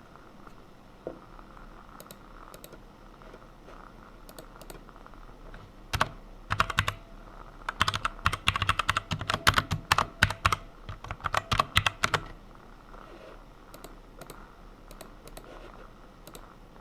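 Computer keyboard typing: a few scattered keystrokes, then a fast run of typing for about six seconds in the middle, then scattered keys again.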